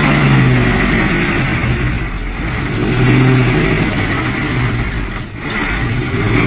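A motor vehicle's engine revs hard under load, with two surges in pitch and loudness, one at the start and one about three seconds in, over a rough noise. It cuts off suddenly at the end.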